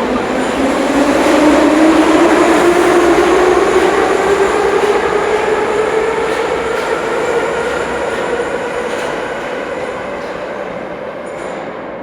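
Ezh3 metro train's traction motor whine climbing in pitch as the train accelerates, over the rumble and rattle of the running gear. The whine then levels off and the whole sound slowly grows fainter.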